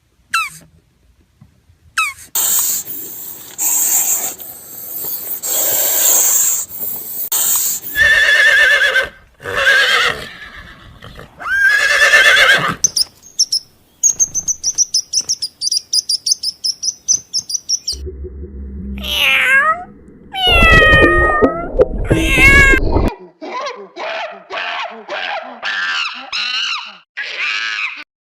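A run of different animal calls played one after another. First comes a rough, noisy stretch, then loud wavering calls. A rapid high trill follows, then calls that fall in pitch, and near the end a string of quick repeated calls.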